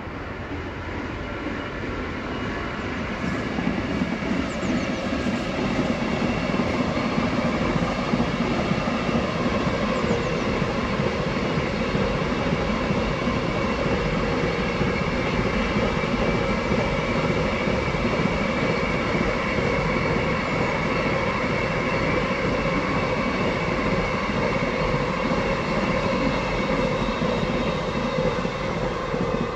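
A train passing close by on the line, its wheels rolling on the rails. It grows louder over the first few seconds, then runs steadily loud for over twenty seconds with a few steady ringing tones over the rumble, as a long train goes by.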